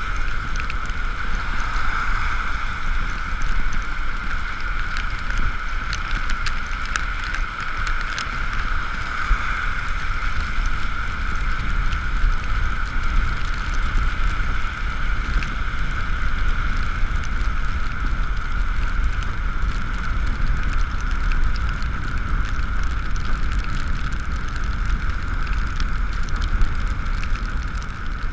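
Ekoway ML5000 electric scooter riding along, its motor giving a steady high whine over low wind rumble on the camera, with scattered light taps of rain.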